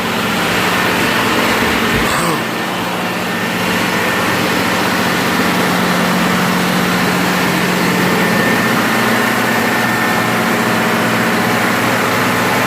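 Towboat engine-room generator running, a loud steady drone with a constant hum.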